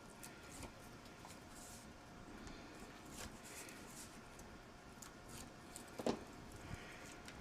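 Paper photo mats being handled: faint rustling and light taps, with one sharper tap about six seconds in.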